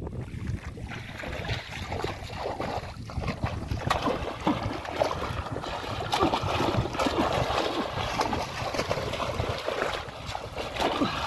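Muddy water sloshing and splashing in many small irregular splashes, busiest in the middle stretch.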